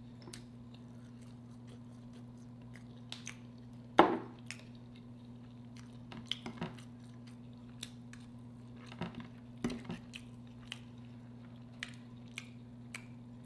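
Close-miked eating sounds: scattered wet mouth smacks and chewing of fish, with the odd click of a fork on the plate. The sharpest smack comes about four seconds in. A low steady hum runs underneath.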